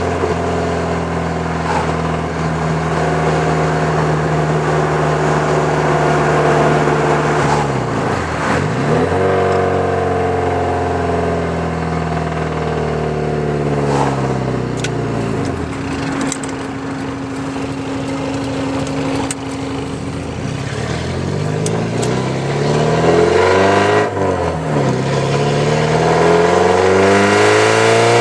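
1983 Porsche 944's 2.5-litre four-cylinder engine running through a straight-piped exhaust with the catalytic converter and muffler cut out. It holds steady at first, then its pitch falls and climbs several times, rising strongly near the end.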